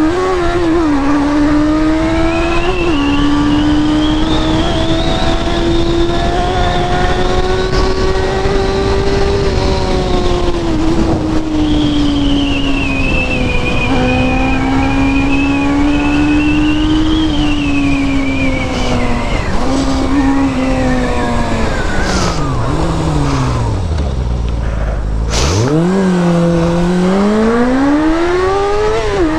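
Car engine pulled hard at high revs, its pitch rising and falling with the throttle and gear changes. Near the end it drops right down as the car slows, then revs up again.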